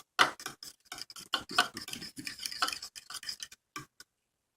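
Raw egg mixture being stirred in a bowl with a utensil: quick, irregular taps and scrapes against the bowl, stopping about four seconds in.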